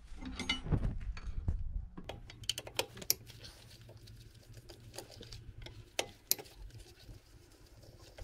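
Metal engine parts and hand tools being handled, giving scattered clicks and clinks. Heavier knocks come in the first couple of seconds, and a faint steady low hum sits beneath from about two seconds in.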